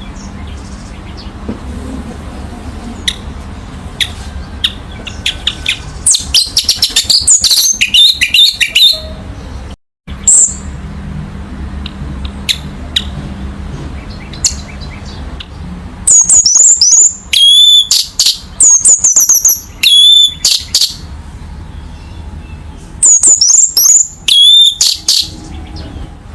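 Orange-headed thrush (anis merah) singing three loud phrases of rapid, high, varied notes and sweeps, with pauses of several seconds between them, over a steady low hum.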